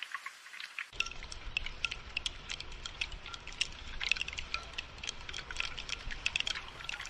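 Rain falling in close, separate drops that patter and drip without a break. About a second in, a low rumble joins beneath the drops.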